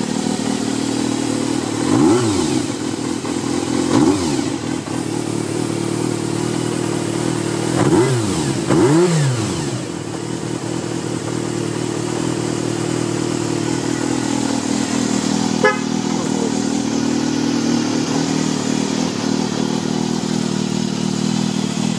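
Kawasaki Zephyr χ's air-cooled 400 cc inline-four idling, blipped four times with the throttle (twice in the first few seconds, then two quick revs close together) and settling back to a steady idle each time; it revs up cleanly after a morning start without choke. A single sharp click sounds about two-thirds of the way through.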